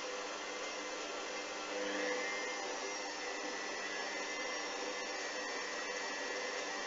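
Hoover washing machine's drum motor running steadily during its spin, a continuous whine that swells slightly about two seconds in.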